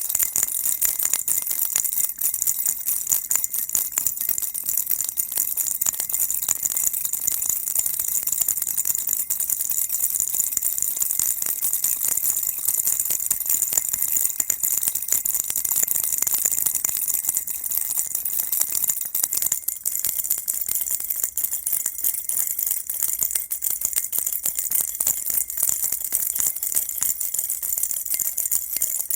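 Baby rattle shaken steadily without pause: a continuous dense, high-pitched rattling of small beads or bells.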